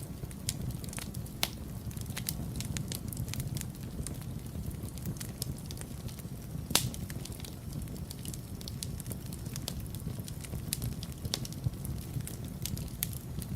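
Wood fire burning in a fireplace: a steady low rumble of flames with irregular crackles and snaps, one sharper pop a little under halfway through.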